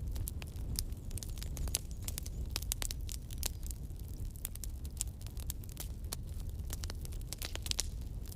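Wood campfire crackling, with irregular sharp snaps and pops over a low, steady rumble of the flames.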